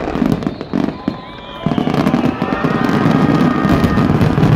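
Aerial fireworks shells bursting in quick succession with dense crackling. After a short lull about a second in, a loud, continuous barrage follows, with whistling tones over it.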